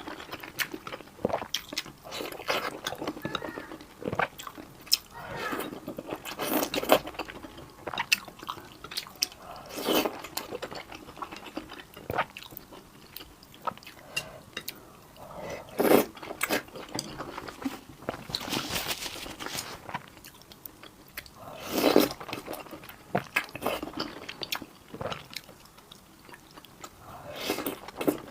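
Close-miked eating: a loud bite or slurp every few seconds, with crunchy chewing between.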